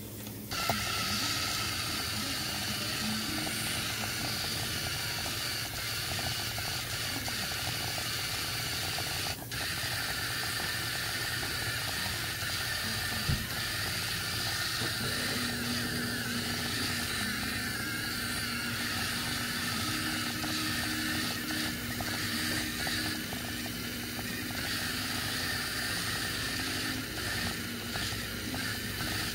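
Mibro bot toy robot's small motors running steadily with a mechanical whir as it drives, with one sharp click about nine seconds in.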